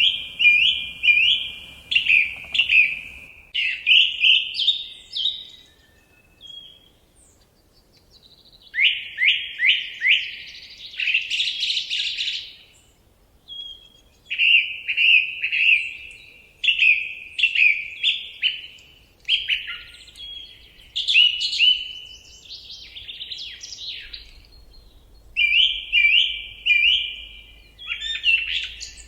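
Forest songbird singing: short phrases of quick, repeated, clear notes, each phrase a second or two long, with brief pauses between them.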